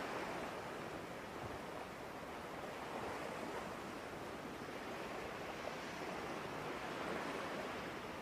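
Soft ocean surf: a steady wash of waves with gentle swells in loudness.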